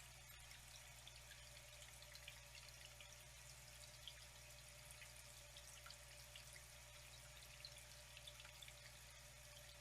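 Faint, steady trickling water with many small drips and splashes scattered through it.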